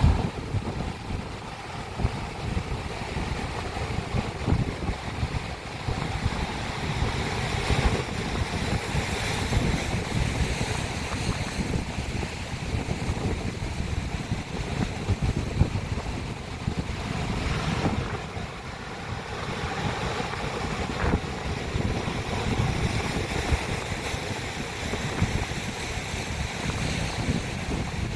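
Sea waves crashing against rocks, a continuous wash of surf with a few stronger surges, with wind buffeting the microphone.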